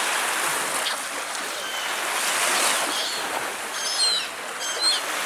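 Steady rushing wash of Baltic Sea surf, with a few short, high bird chirps about four seconds in.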